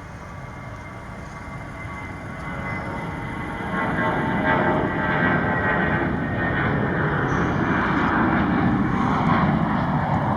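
Airbus A321-200 jet airliner taking off. The jet engine noise builds, gets louder about four seconds in, and then holds steady, with a faint whine in it.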